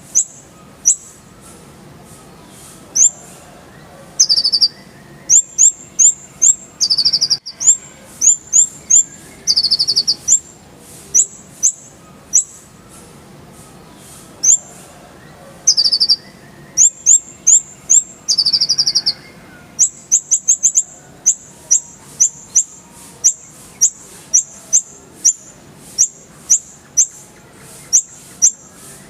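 Kolibri ninja sunbird singing a fast, busy song of sharp high chips and short buzzy trills, the notes coming in quick rattling runs with short gaps between.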